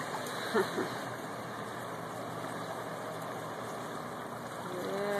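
A car's engine running as it drives slowly through floodwater, over a steady rush of flowing water.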